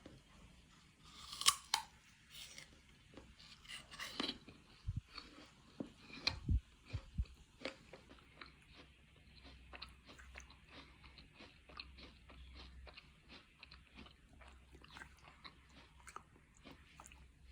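Chewing and crunching food, with many small irregular crunches and a few louder knocks.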